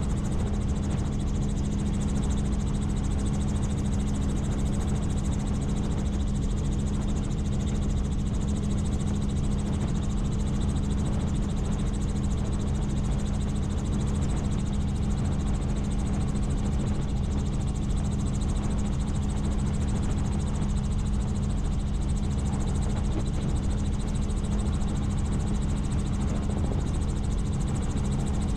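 Helicopter in flight: steady engine and rotor drone with a strong, even low hum that does not change.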